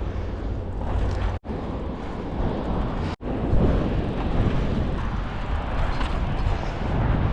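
Wind buffeting the microphone: a steady low rumble with hiss. It cuts out abruptly twice, briefly, about a second and a half in and again about three seconds in.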